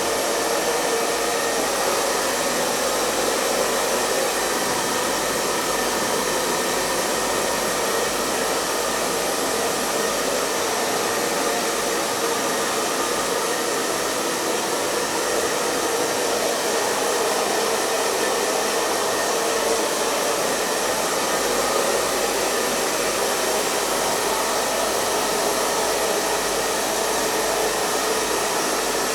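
Hair dryer blowing steadily, an unbroken even whoosh of air with a faint motor hum.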